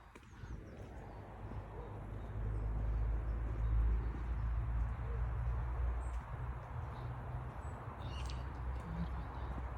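Birds chirping, a few short high calls, over a steady low rumble that builds over the first couple of seconds and is the loudest sound.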